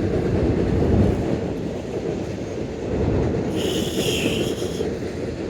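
Intermodal freight train crossing a railroad bridge: a steady low rumble of the passing cars, with a high wheel squeal for about a second, starting about three and a half seconds in.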